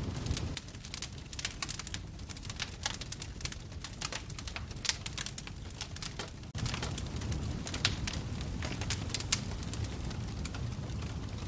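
Wood fire in a fireplace crackling, with sharp pops scattered throughout over a low rumble. The rumble thins out shortly after the start and cuts back in, stronger, about six and a half seconds in.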